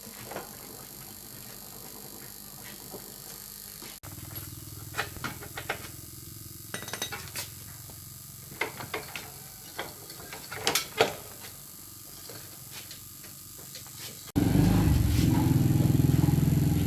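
Sharp metallic clinks and taps of tools and parts on a motorbike, scattered over about ten seconds. Near the end a motorbike engine is heard running, loud and steady, starting abruptly.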